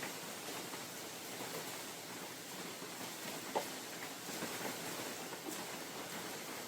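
Steady rain falling in a forest, an even hiss with scattered drops tapping close by; one sharper drop hits a little past halfway.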